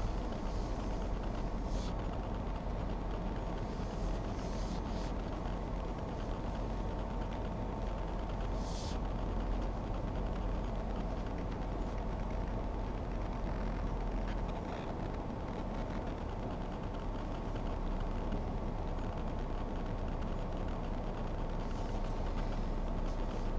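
Car engine idling at a standstill, heard from inside the cabin as a steady low rumble with a faint constant whine; the rumble eases slightly about two-thirds of the way through.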